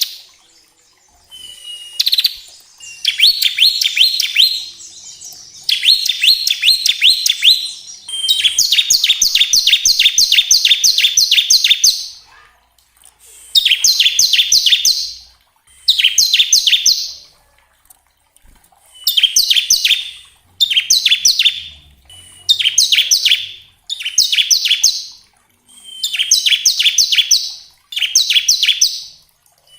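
Bar-winged prinia (ciblek) singing its rattling "ngebren" song: bursts of rapid, evenly repeated sharp high notes, several opened by a short whistle. The bursts come one after another with short gaps; one near the middle runs about four seconds.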